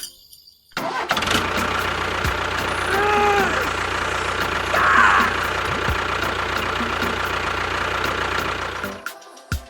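An engine starts up about a second in and runs steadily, then cuts off near the end. A brief rising-then-falling tone sounds over it about three seconds in.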